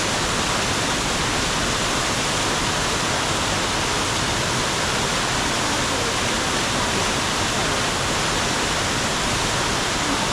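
Melincourt waterfall: water falling and rushing in a steady, loud, unbroken roar.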